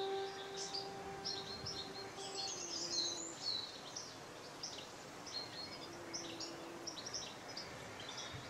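Small birds chirping in quick, short, high calls over a faint background hiss. A held fiddle note dies away in the first three seconds.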